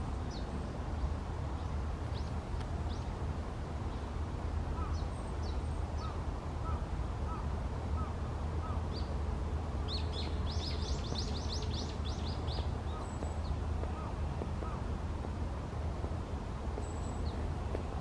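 Small birds giving short, high calls now and then over a steady low rumble, with a quick run of chirps about ten seconds in.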